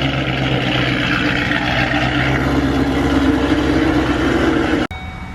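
Built, supercharged 5.8L V8 of a Shelby GT500 idling steadily and loudly through aftermarket headers and exhaust, just after its first startup. It cuts off suddenly near the end, and music begins.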